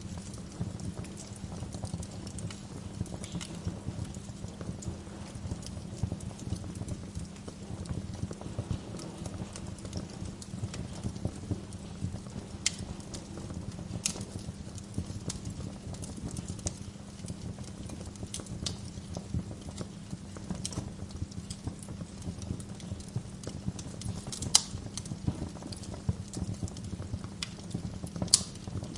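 Wood fire burning in a fireplace, crackling steadily over a low rumble, with a handful of sharper, louder pops from the burning logs.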